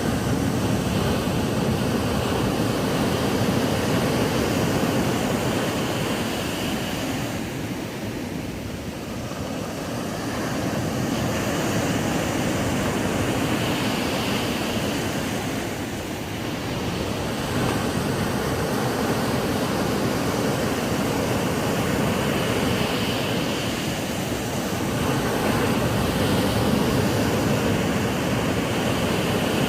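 Ocean surf breaking and washing up a sandy beach: a continuous rush of waves that swells and eases, dipping slightly about every eight seconds.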